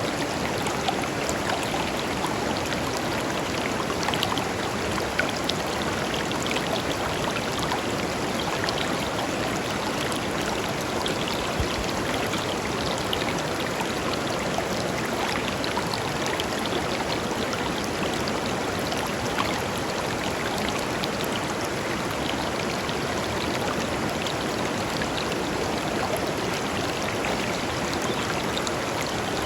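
Shallow river flowing steadily over and between stones, a constant rushing with fine splashing and burbling throughout.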